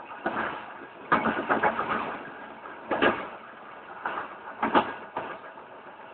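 Cisalpino passenger train running, its wheels knocking and clacking irregularly over rail joints, with a quick cluster of clacks about a second in and sharp single knocks near the middle and just before the end, over a steady running noise.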